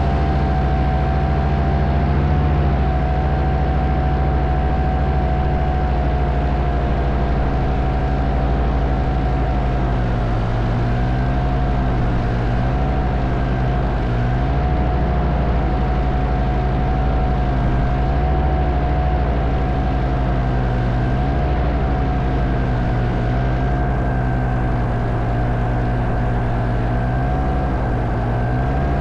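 Powered paraglider trike's engine and propeller running steadily while the trike taxis on the ground, the pitch wavering slightly now and then.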